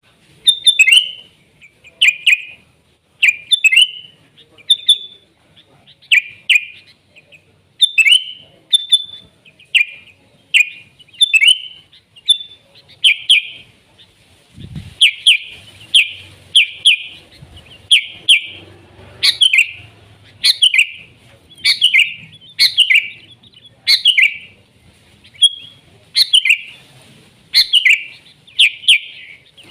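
Sooty-headed bulbul (kutilang) singing: short, loud chirping phrases repeated about once a second without a break.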